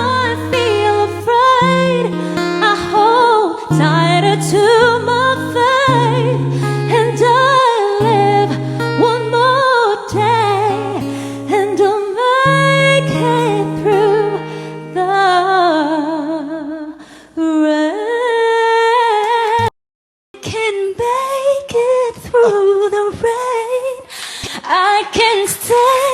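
A solo singer, probably female by the pitch, singing a slow ballad with vibrato over held backing chords. About 20 s in the sound cuts out for a moment, and the singing picks up again without the low chords and with more background noise.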